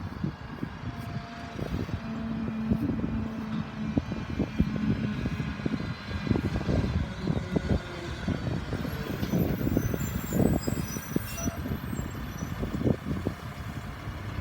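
Mack LR side-loader garbage truck running: a continuous diesel rumble with uneven low buffeting, and a steady hum for a few seconds early on.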